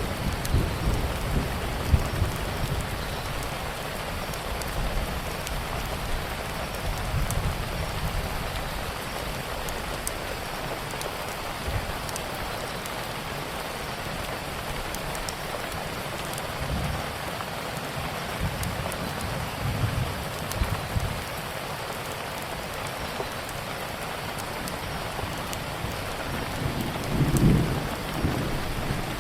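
Steady rain with low rumbles of thunder, strongest in the first few seconds and again near the end, and scattered sharp crackles of a wood fire throughout.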